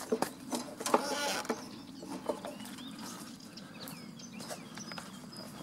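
Outdoor ambience with small birds chirping, and a short louder call about a second in.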